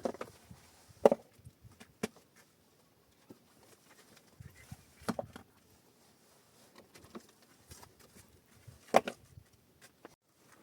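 A handful of sharp knocks or cracks spaced irregularly over several seconds, the loudest about a second in and near the end.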